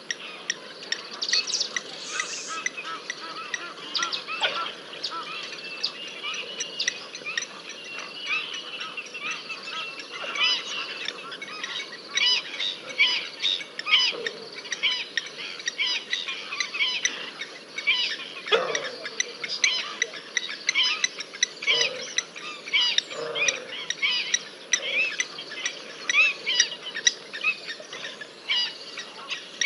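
Birds chirping: a dense chorus of short, high calls that becomes quicker and busier about halfway through, with a few lower calls mixed in, one of them falling sharply in pitch.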